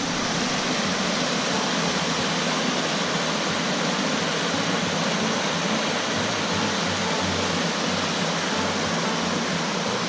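A shallow creek running over rocks, a steady hiss of flowing water.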